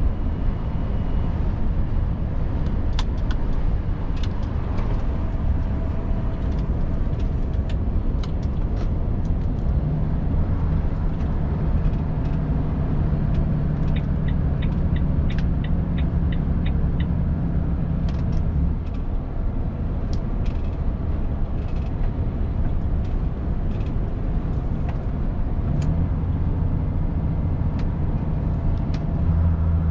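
Volvo FH 500 truck's 13-litre inline-six diesel running on the road, a steady low drone that deepens and strengthens under load twice, around the middle and near the end. A short run of quick, even ticks sounds about halfway through, with scattered light clicks and rattles throughout.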